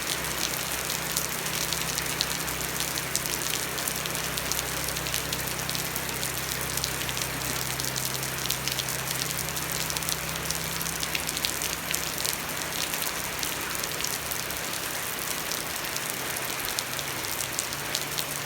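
Steady rain falling, a dense patter of drops. A low steady hum runs underneath, drops away about two-thirds of the way through and comes back near the end.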